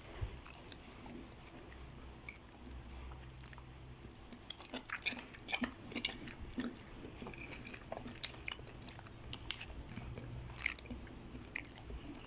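Close-up chewing and biting sounds of a person eating, with irregular wet mouth clicks that come thicker from about four seconds in.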